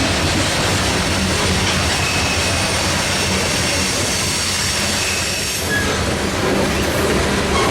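Freight train rolling past at close range, a steady rumble of wheels on rail with faint high-pitched wheel squeal over it.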